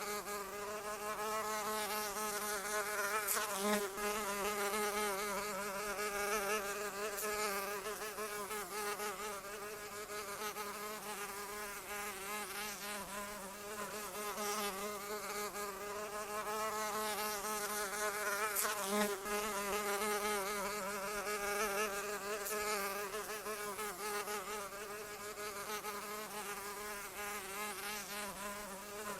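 A flying insect buzzing continuously, its wing-beat drone wavering slightly in pitch and swelling and easing in loudness as it hovers.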